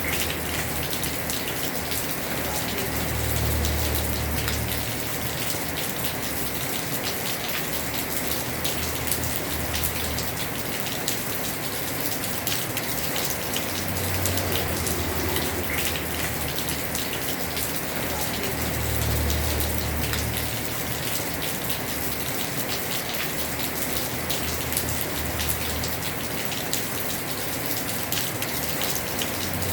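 Heavy rain falling on a house roof: a steady dense patter of drops. A low rumble swells and fades several times.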